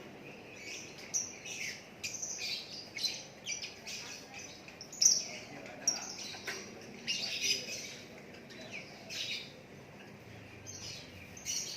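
A caged lakbet songbird singing: a busy run of short, quick, high chirps and twittering phrases, one call a little louder about five seconds in.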